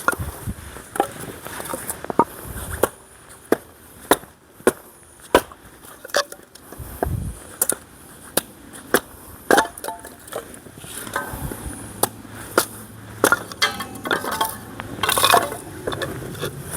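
Nadae hatchet chopping and splitting firewood into kindling: a long series of sharp knocks, about one to two a second, as the blade strikes and the wood splits.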